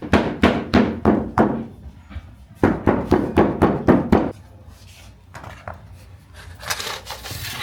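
Rhythmic knocks on a wooden work surface in a bakery kitchen, about three a second, in two runs of five or six strokes. A short hiss follows near the end.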